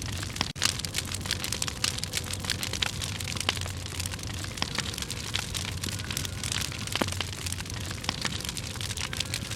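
Campfire of dry firewood burning, crackling with dense irregular pops and snaps.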